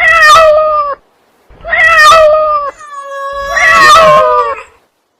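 Domestic cat meowing: three loud, long meows in a row, the last one drawn out the longest.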